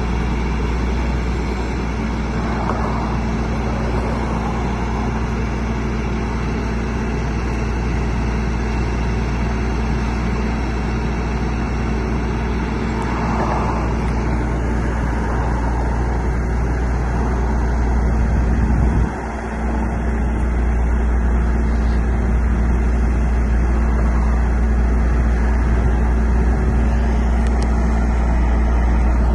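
Truck engine running steadily with a deep, even hum, dipping briefly about two-thirds of the way through.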